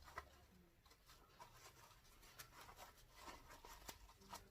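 Near silence with faint, scattered light clicks and rustling: a surgical face mask being handled and fitted onto a homemade plastic attachment.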